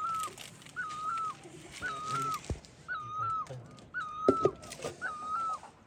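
An animal call repeated steadily about once a second, each call a short even note that lifts at the start and drops at the end. A few sharp knocks sound near the middle, the loudest about four seconds in.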